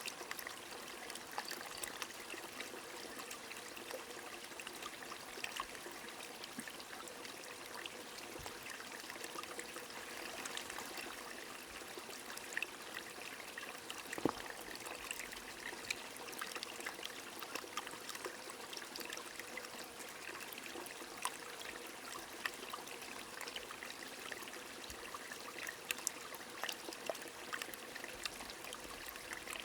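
Steady rush of a flowing stream under falling rain, dotted with many small drop ticks and one sharper tick about halfway through.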